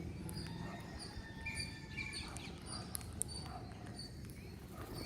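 Birds chirping: a short high note repeats about every half second, with a few longer whistled notes and scattered sharp clicks over a steady low background rumble.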